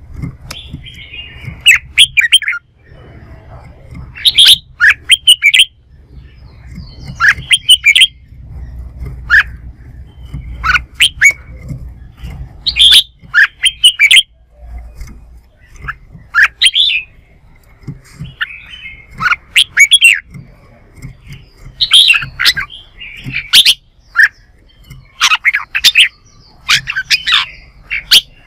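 Red-whiskered bulbul singing: short, loud phrases of quick sharp chirps, one every second or two, in the bold challenge song of a bird answering a rival.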